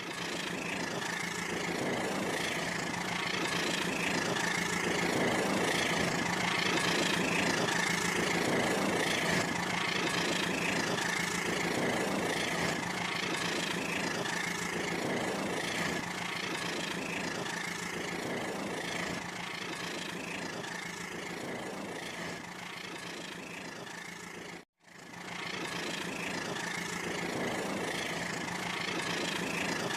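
Rail King toy train's small electric motor running steadily: a constant whine with a rhythmic pulse about once a second. It cuts out for an instant near the end.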